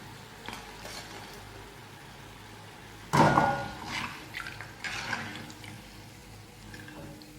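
Rice-flour snack balls frying in hot oil, with a metal spoon scraping and clinking in the pan as they are lifted out. A sudden louder clatter and sizzle about three seconds in, then smaller clatters around four and five seconds.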